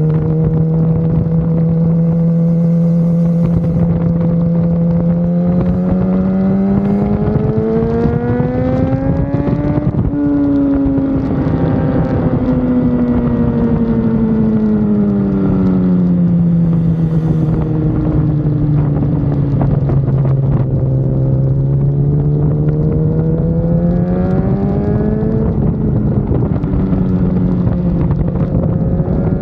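BMW S 1000 RR race motorcycle engine running at speed, its note climbing steadily for several seconds, falling away, then rising again near the end, with wind rushing over the bike.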